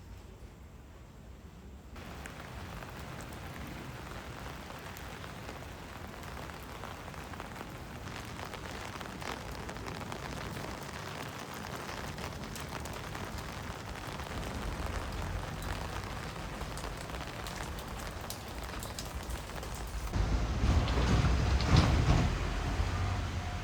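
Train approaching along the track: a rushing noise that slowly builds, with a much louder rumble near the end and a thin steady high tone coming in as it arrives.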